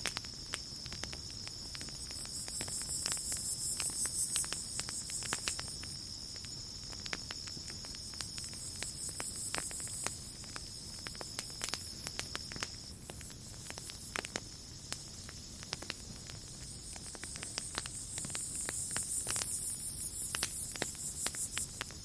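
Campfire crackling with irregular sharp pops, over a chorus of night insects: a steady high trill that stops a little past halfway, and a higher buzzing that swells twice.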